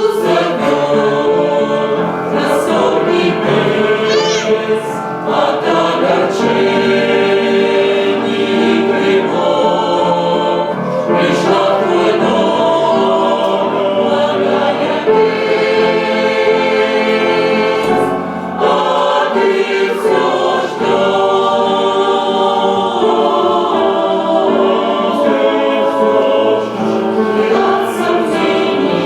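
Church choir singing a Christian hymn in Russian, many voices holding chords together and moving from chord to chord.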